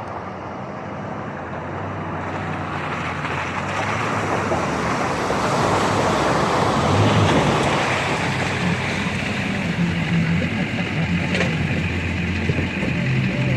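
Truck engine running hard under load as it drives through deep mud, with tyres churning and mud and water splashing, growing louder toward the middle.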